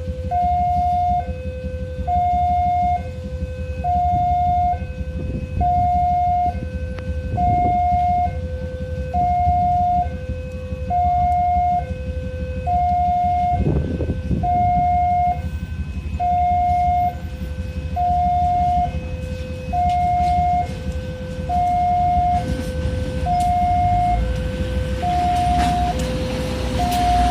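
Electronic two-tone railway level-crossing warning alarm, a high and a low tone alternating about once a second, over a low rumble. Near the end a rising noise builds, as of a train approaching.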